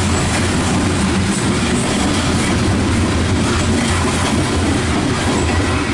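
Loaded coal cars of a CSX freight train rolling past close by. Their steel wheels make a steady, loud rolling noise on the rails.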